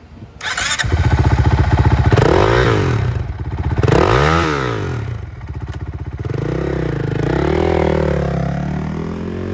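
Honda CRF450RL's single-cylinder four-stroke engine through an FMF exhaust, running and revved in a few throttle blips that rise and fall in pitch, the highest about four seconds in.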